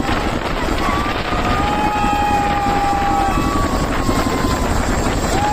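Helicopter flying over: a dense, fast rotor chop with wind on the microphone. A few long, high, steady tones sound over it, about a second or more each.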